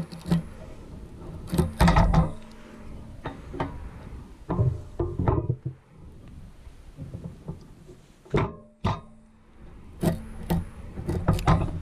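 A series of irregular knocks and thumps, some sharp and some dull, a second or so apart.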